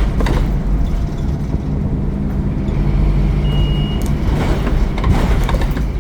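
Scania N230UD Omnicity double-decker bus's diesel engine running steadily, heard from on board. A short high beep comes a little past halfway, and a burst of rattling and hiss follows near the end.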